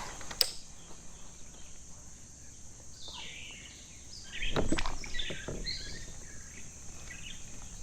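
Quiet outdoor ambience with a few short, high bird chirps in the middle, a sharp click near the start, and a brief cluster of knocks about halfway through, from fishing gear being handled in a kayak.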